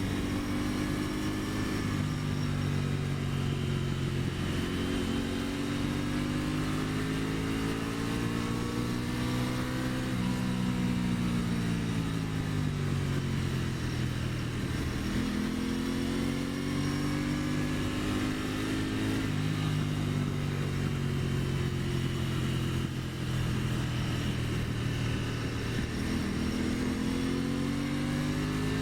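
2023 Aprilia Tuono 660's parallel-twin engine under way, its revs climbing and falling back several times as the bike accelerates and slows.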